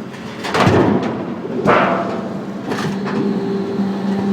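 Sheet-metal scrap baler at work: three loud metal bangs about a second apart as the scrap is pressed, then a steady machine hum from about three seconds in.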